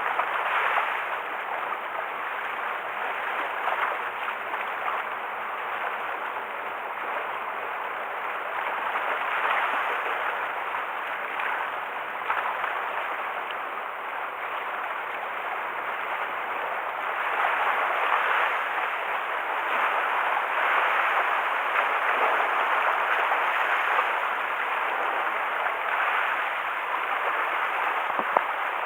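Choppy sea water washing and splashing against the shore, surging louder and easing again every few seconds, stirred up by an approaching typhoon.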